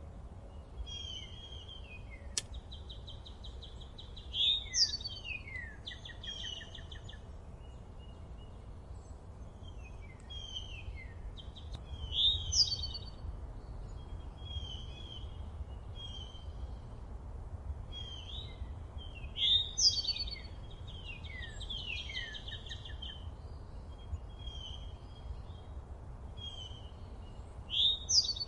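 Several songbirds singing in a forest. One bird's loudest phrase of quick sweeping notes comes back about every seven to eight seconds, with other birds' chirps and a buzzy trill between, over a steady low rumble.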